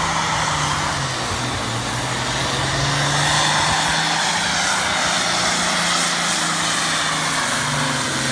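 Farm tractor engine running hard at steady high revs under full load, dragging the weighted pulling sled.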